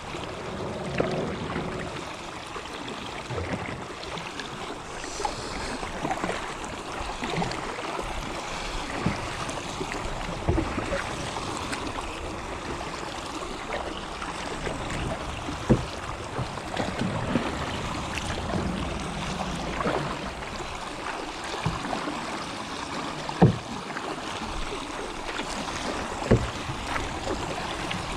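Kayak paddling: paddle blades dipping and splashing in river water over a steady wash of water, with a few sharp knocks now and then.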